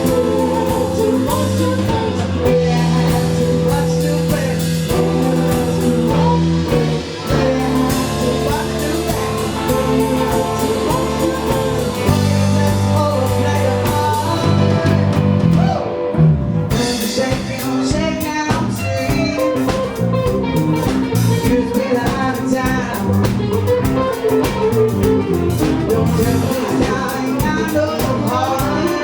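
A live band playing a blues or jazz number, with a singer over guitar, bass and drums. About halfway through, long held low notes give way to a choppier rhythm.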